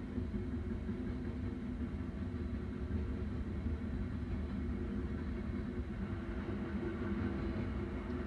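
BNSF coal train passing: a steady low rumble with a continuous engine-like drone.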